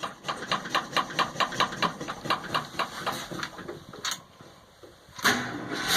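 1978 Ford F-250 engine on a cold start at minus seven degrees: the starter cranks it over in an even chug of about four to five compression strokes a second. The cranking falls away for about a second, then the engine fires near the end and catches, running on.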